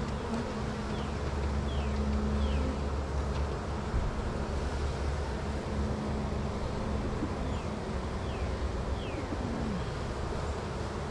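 Honey bees buzzing around an opened hive: a steady hum over a low rumble. Two sets of three short, falling high chirps cut through it, near the start and again about two-thirds of the way in.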